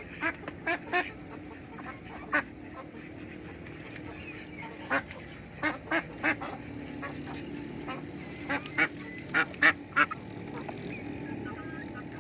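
Domestic ducks quacking: short, sharp quacks in quick runs of two to five, over a steady low murmur from the flock.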